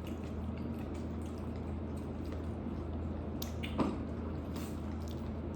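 Faint wet mouth sounds of people eating chicken wings, chewing and small lip smacks, over a steady low hum. One short louder sound comes a little before four seconds in.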